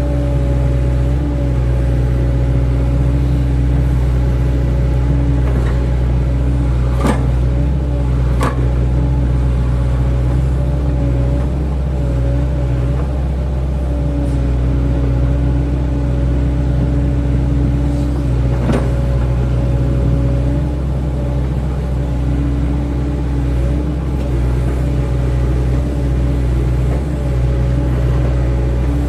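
Excavator diesel engine running steadily, with a steady hum and a few sharp metallic knocks about seven, eight and a half, and nineteen seconds in.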